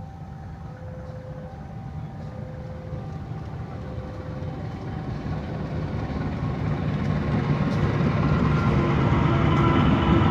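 Level crossing warning signal sounding its two alternating tones while an approaching train's rumble grows steadily louder.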